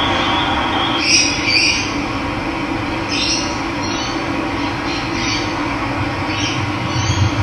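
Steady rush of running water, with birds calling in short, high notes about eight times over it.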